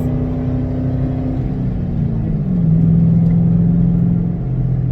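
2006 Ford Mustang GT's 4.6-litre V8 running while driving, its note dropping in pitch about halfway through, getting louder for a moment, then stepping down again near the end.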